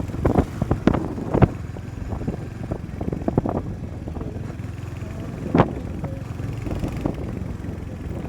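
Motorcycle engine running steadily with a low hum, with scattered sharp knocks and clicks over it; the loudest comes a little over five seconds in.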